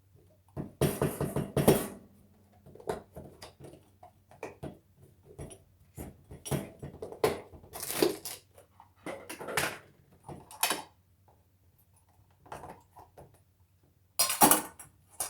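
Kitchen utensils knocking and scraping against a bowl and container while powdered sugar is scooped and measured out. The clinks and scrapes come irregularly, with a dense run of knocks about a second in.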